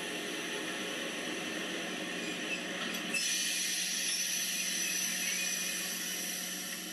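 N-scale model diesel locomotive running on track, its small electric motor whining and its wheels rolling with a steady hiss. About three seconds in, the sound turns brighter and higher-pitched.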